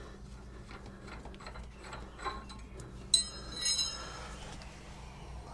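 Small metal clicks and rattles, with two brief ringing metal clinks about three seconds in.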